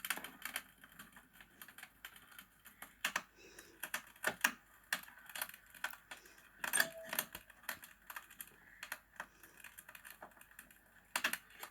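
A spoon clicking and clinking against a bowl during eating, in irregular sharp taps, with one brief ringing clink about seven seconds in.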